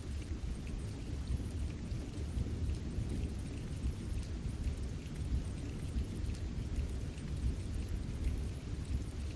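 Steady low rumbling storm noise with faint scattered ticks, like wind and falling precipitation.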